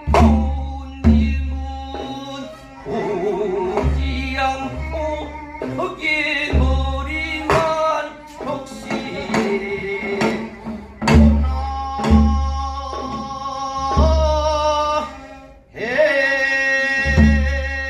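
A singer performing a southern Korean folk song (namdo minyo) with a wide, shaking vibrato and long held notes, over deep drum strokes and instrumental accompaniment.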